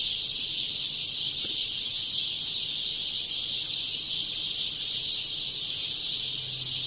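A dense dawn chorus of many small birds, sparrows, chirping together as one steady, unbroken high-pitched wash of sound.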